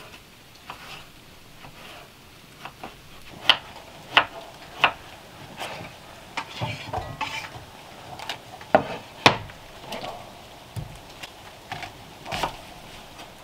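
Irregular clinks and knocks of hard objects being handled and set down, some with a brief metallic ring. The sharpest come in two clusters, a few seconds in and again about two-thirds of the way through.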